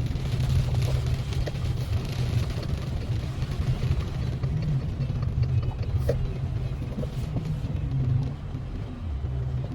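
A car driving: a steady low road rumble with a fainter hiss over it and a few small ticks.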